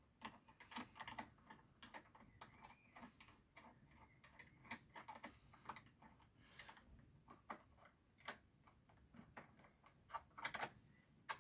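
Faint, irregular clicks and light taps of hand tools and small metal parts being worked on a small chainsaw, as the chain tensioner screw at the back is adjusted.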